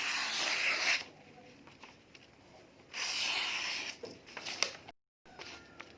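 A golok (machete) blade slicing through material in two drawn strokes, each about a second long and about two seconds apart, as a test of the blade's sharpness.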